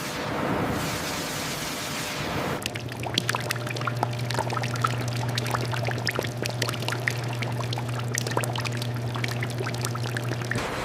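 Liquid pouring and splashing, heard as dense crackling drops over a low steady hum. The hum and splashing cut off just before the end; before them, for the first couple of seconds, there is only an even rushing noise.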